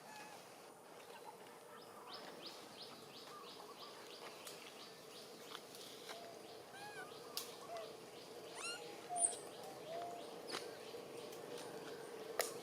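Faint animal calls: a rapid run of short chirps, then several short squeaky arched calls, with a few sharp clicks in between.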